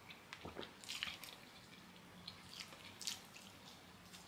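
Close-miked eating sounds: soft chewing and wet mouth smacks with a few short clicks, from someone eating kenkey.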